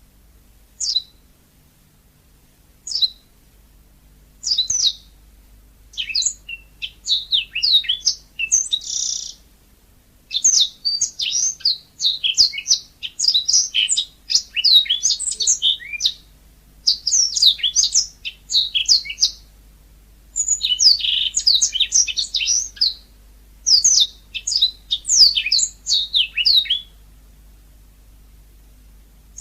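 Yellow-fronted canary (Mozambique canary) singing: a few single high chirps at first, then fast, twittering song phrases of a few seconds each, broken by short pauses.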